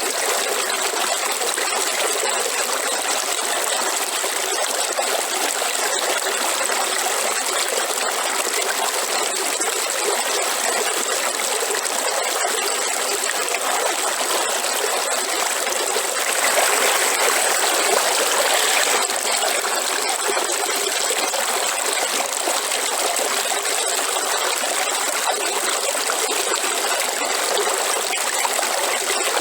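Waterfall: falling water rushing steadily, swelling slightly for a few seconds past the middle.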